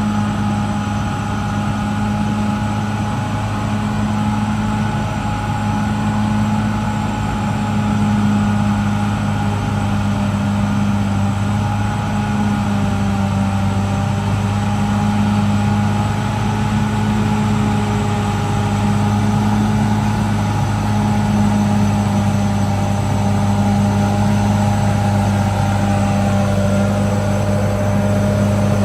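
CAT D6R XL bulldozer's diesel engine running steadily, a low hum with a fainter steady whine above it.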